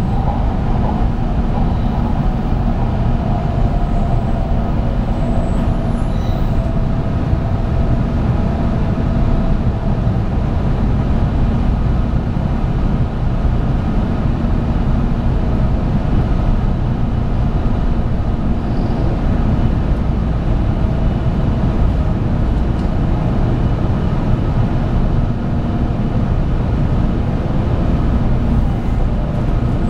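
Interior of a 700 Series 7000 'Rail Star' Shinkansen train running steadily: a continuous low rumble of the wheels on the track, with a constant hum of even pitch.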